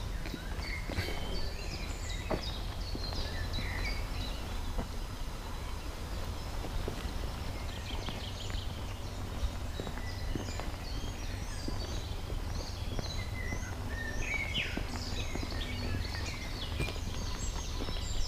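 Outdoor ambience of several songbirds chirping and trilling throughout, over a steady low rumble, with scattered faint clicks of footsteps.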